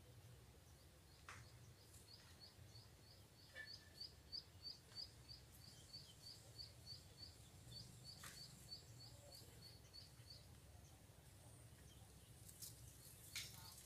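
Faint bird call: a run of short, high chirps repeated evenly, about three to four a second, for several seconds before stopping, over near-silent background.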